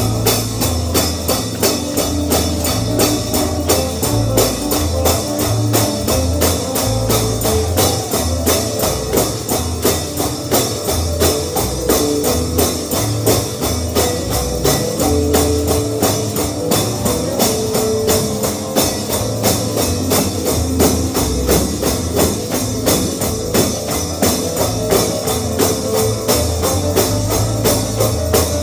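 Up-tempo gospel instrumental with a tambourine struck on a steady quick beat over bass and guitar.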